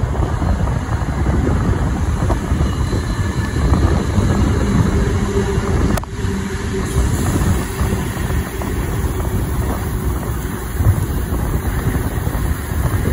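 Steady rumble of a steam-hauled passenger carriage running along the track, with wind buffeting the microphone. A single sharp click about six seconds in.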